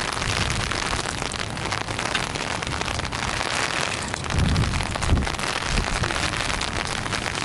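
Steady rain falling on an umbrella held just overhead, a dense hiss of drops throughout, with a low rumble about halfway through.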